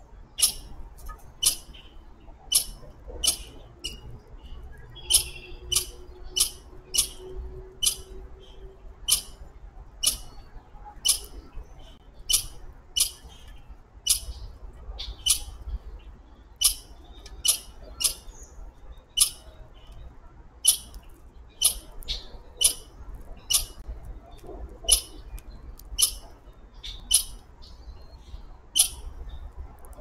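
A songbird repeatedly giving short, sharp, high chip calls, one or two a second at an uneven pace.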